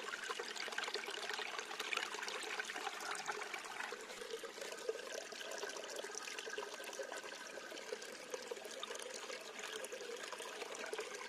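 Waterfall water splashing and rushing, a steady faint wash of noise.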